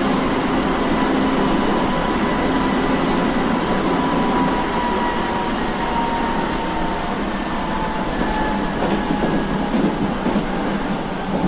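Inside a running Osaka Municipal Subway 66 series (early-batch) car with GTO-VVVF inverter control: a steady rumble of the car on the rails. Over it the inverter's whine falls in pitch in steps through the second half, as the train slows.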